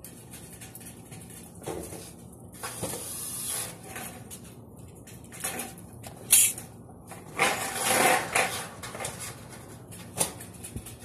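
Metal framing channels clanking and scraping as they are handled and slid over a concrete floor, in irregular bursts with one sharp clank about six seconds in.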